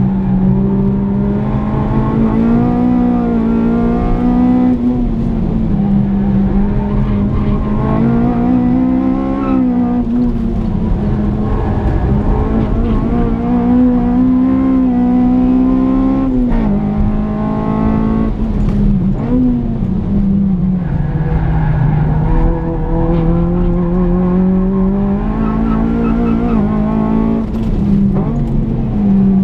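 Honda Civic EP3 Type R's four-cylinder engine heard from inside the cabin while it is driven hard on track, its note rising and falling several times with the revs.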